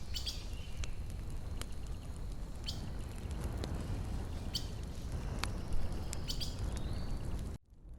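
Campfire burning, with sharp crackles and pops from the firewood over a low steady rumble, and a few short bird chirps in the background. The sound drops out for a moment near the end.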